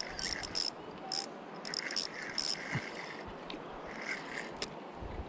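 Fishing reel being cranked to bring in a hooked fish: bunches of quick mechanical clicks over a steady hiss of background noise.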